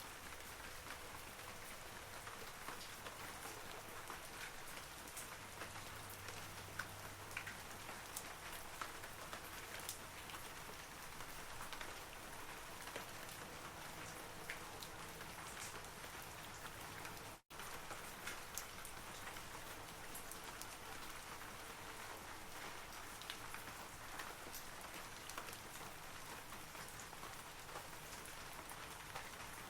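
Steady rain falling on forest trees, a soft even patter with individual drops ticking on leaves. The sound cuts out for an instant a little past halfway, then carries on.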